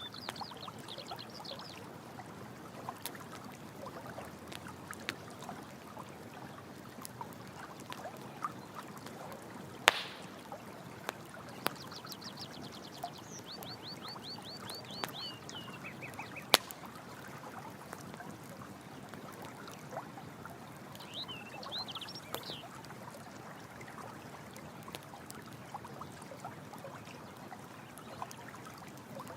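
Running water with a campfire crackling and popping, a few pops louder than the rest. Three times an animal calls in rapid trains of high chirping notes, the middle train stepping down in pitch at its end.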